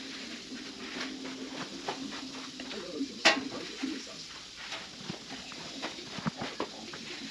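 Scattered clicks and light metallic taps of work on a motorcycle in a workshop, with one sharper knock about three seconds in, over a steady low hum.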